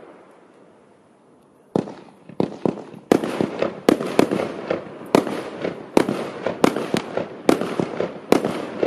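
Multi-shot consumer fireworks cake firing shot after shot. After a short lull, sharp bangs start just under two seconds in and come about twice a second, with a hiss between them.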